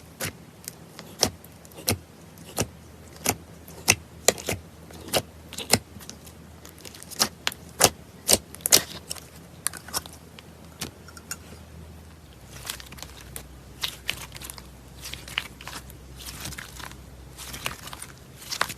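Slime being pressed and stretched by hand, giving sharp irregular pops and crackles. About twelve seconds in the background changes and the crackling turns softer and denser.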